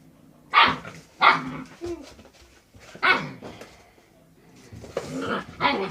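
Dog barking: about five sharp, loud barks at irregular intervals, with a short lull in the middle.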